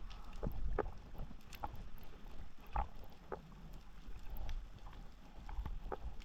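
Water sloshing and rushing around the camera, with scattered irregular clicks and knocks over a low rumble.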